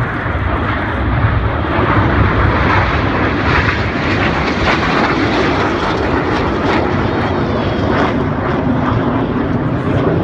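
Red Arrows BAE Hawk T1 jets in display flight, their engines making a loud, steady jet noise.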